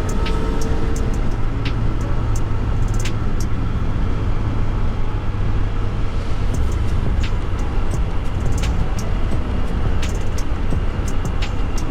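Motorcycle riding at a steady speed: the engine's even low drone under wind rushing past the camera microphone, with scattered light clicks.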